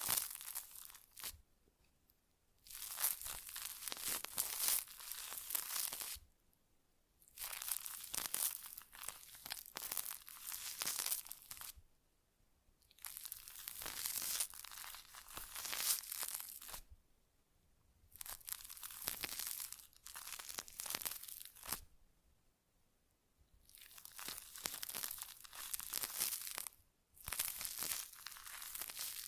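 Close-up ASMR crinkling and scratching sounds in repeated passages of two to four seconds, about seven in all, each separated by a brief pause.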